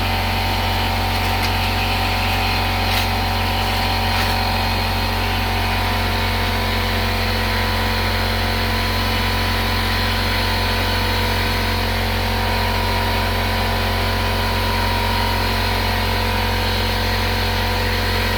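Steady machine hum from workshop equipment running continuously, with a few light clicks in the first few seconds.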